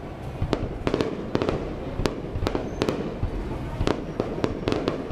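Fireworks display going off: irregular sharp cracks and bangs, several a second, over a continuous low rumble of bursting shells.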